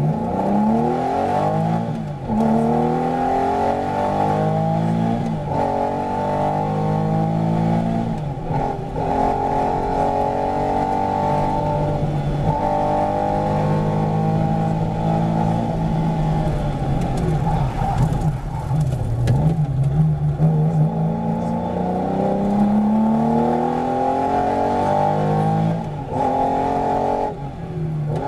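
Porsche 911's air-cooled flat-six engine under hard acceleration, heard from inside the car. Revs climb and drop back through several upshifts every three to four seconds, hold high at speed, then fall away and build again.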